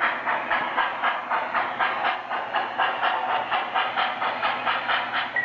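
Lionel model train locomotive's steam chuff sound effect, a steady run of hissing puffs about four a second.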